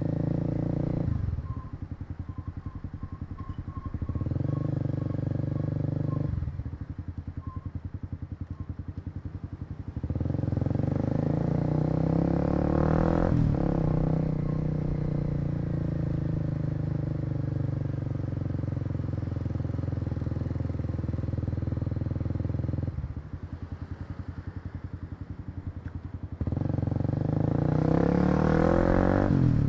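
Kawasaki KLX250's single-cylinder four-stroke engine under way, heard from the rider's position: the throttle closes and opens in turn, with three quieter off-throttle stretches of rapid pulsing between louder stretches of steady running. The pitch climbs as it accelerates about twelve seconds in and again near the end.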